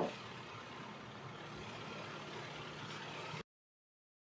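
A single sharp knock, then the steady low hum of a car. The sound cuts out abruptly about three and a half seconds in.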